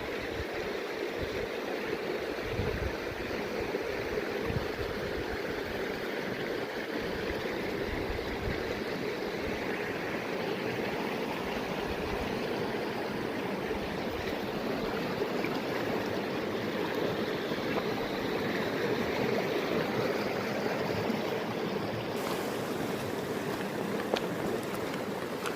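Mountain stream flowing steadily, a constant rush of water.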